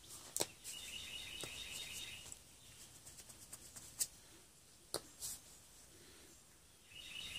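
A songbird trilling twice, each trill about a second and a half long, with a few sharp clicks and taps in between.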